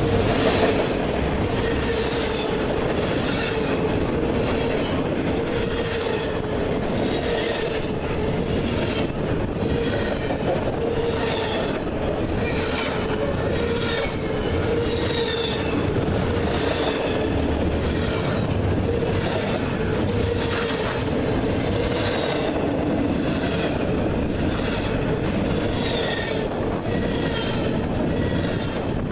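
Train cars rolling past at steady speed: continuous rumble of wheels on rail with regular clacks over rail joints and a high wheel squeal that comes and goes.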